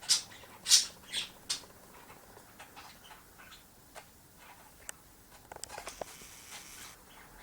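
Pet budgies giving four short, harsh squawks in the first second and a half, then faint ticks and soft chatter about two-thirds of the way through.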